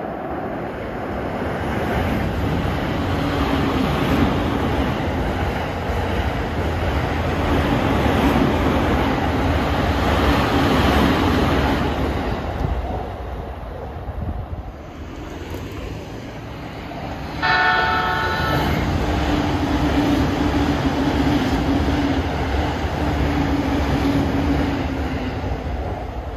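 Electric trains running past below, a steady rumble of wheels on rail with a low motor hum. The rumble eases for a few seconds in the middle. A short train horn blast comes about 17 seconds in, followed by more train running noise that fades near the end.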